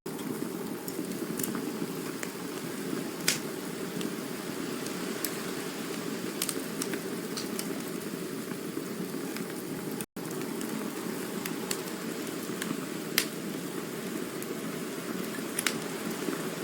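Campfire burning: a steady low rush of flame with irregular sharp crackles and pops of burning wood, a couple of them louder. The sound cuts out for an instant about ten seconds in.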